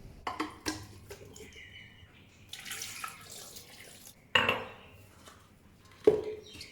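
Dishes and utensils knocking against each other in the kitchen, with a short run of water about midway and two louder clatters in the second half.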